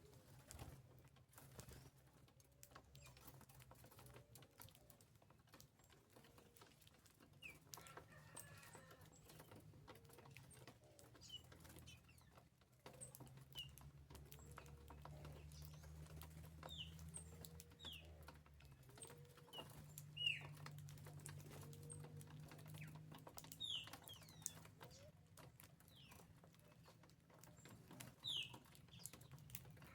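Faint birds at a feeder: low, arched calls repeated every few seconds, with short, sharp, falling chirps from smaller birds now and then. The chirps are loudest about two-thirds of the way through and again near the end, over a steady low hum.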